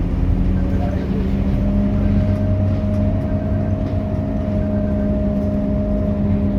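Scania K230UB single-deck bus running steadily: a constant engine drone with a steady whine over it.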